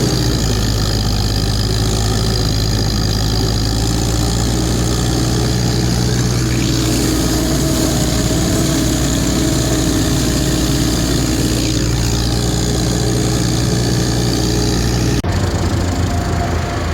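Engine idling steadily, with an abrupt change about fifteen seconds in.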